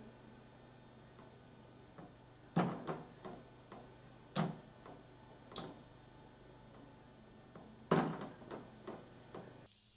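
Several sharp knocks, four stronger ones spread out with smaller ones after, over a faint steady hum.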